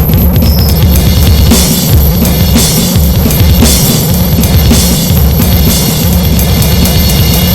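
Harsh noise music: a loud, dense wall of distorted electronic noise, full of crackling clicks over a heavy pulsing low end, with pounding drums underneath.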